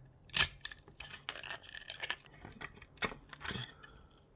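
Built-in support material being snapped and peeled off a 3D-printed plastic part by hand: a string of sharp plastic clicks and crackles, the loudest about half a second in.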